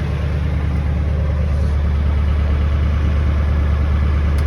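1997 Ford F350's 7.3 Power Stroke turbo-diesel V8 idling steadily after its cold start, warmed up and running smoothly with its smoke cleared.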